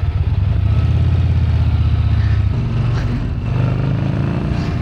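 Yamaha Bolt's air-cooled V-twin engine running under way, a deep pulsing exhaust note. It is strong at first, eases about halfway through, then builds again toward the end.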